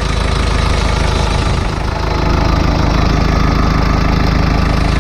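Isuzu 4BD1T four-cylinder turbo diesel idling steadily shortly after a cold start, getting a little louder about two seconds in.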